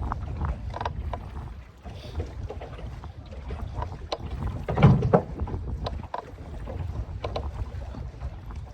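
Low rumble and wind on the microphone aboard a fishing boat, with scattered knocks and clatter of gear in the boat; the loudest is a low thump about five seconds in.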